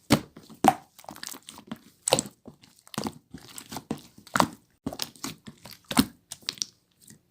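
Slime being squeezed and poked by hand: sharp sticky pops and clicks at irregular intervals, the loudest about every second or two, with softer crackling between them.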